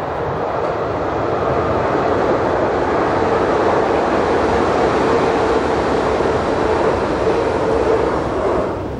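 Electric multiple-unit passenger train rolling across a steel truss railway bridge, a steady rumble with a droning hum that grows louder as it passes and fades away near the end as the train runs off the bridge.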